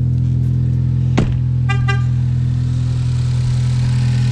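Turbocharged four-cylinder car engine idling steadily with its hood off. A sharp click comes about a second in, followed by two short horn-like beeps.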